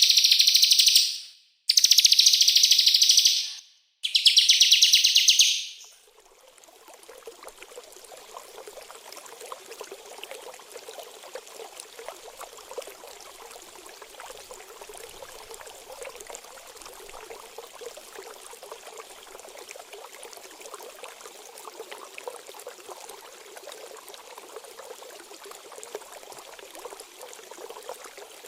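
Loud, fast, high-pitched bursts of small songbird song, each lasting a second or two, for the first six seconds. Then they give way to a steady, quieter trickle of running water.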